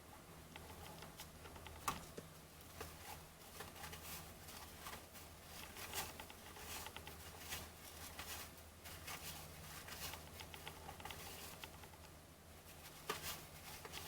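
Baseball trading cards being flipped through by hand, with soft irregular rustles and clicks of card against card. A sharper snap comes about two seconds in and another near the end, over a faint steady low hum.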